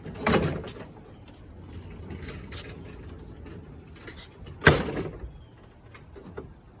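Wheeled freight pallets rolling with a low rumble, with two loud bangs about four seconds apart and a smaller knock near the end.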